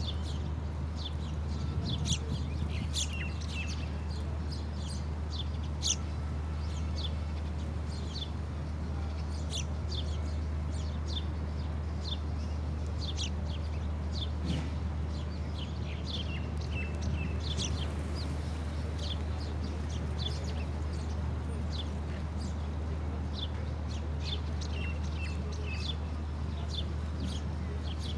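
Small birds chirping: many short, high chirps in quick irregular succession throughout, over a steady low hum.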